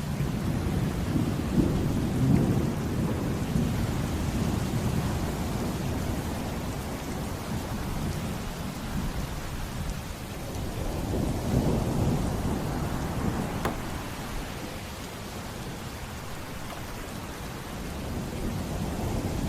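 Heavy rain falling steadily while thunder rumbles twice in long, low swells, first near the start and again a little past the middle.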